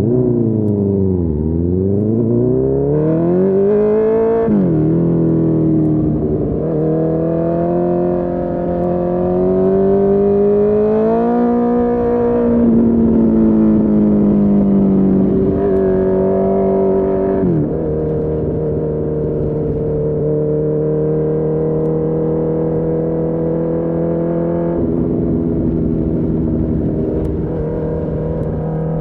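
Honda CB1000R inline-four with a full Akrapovic exhaust, heard from the rider's seat. The revs dip and then climb under throttle, and the pitch drops suddenly at gear changes about four and a half, seventeen and twenty-five seconds in. Between the shifts the engine rises and eases with the throttle, then holds a steady cruise.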